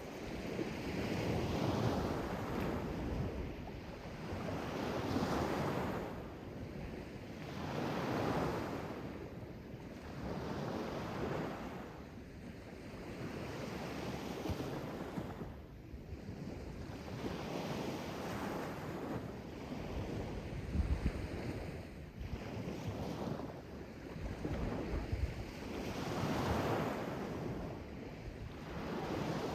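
Sea waves washing in and drawing back, the surf swelling and fading every two to three seconds, with wind rumbling on the microphone at times.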